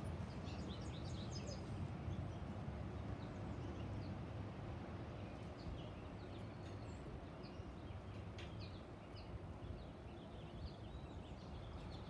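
Small songbirds chirping: many short, high calls scattered throughout, over a steady low background rumble.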